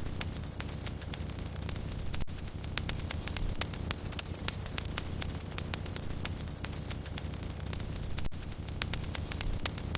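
Wood fire crackling in a fireplace: frequent sharp pops and snaps at irregular intervals over a steady low rumble of the flames.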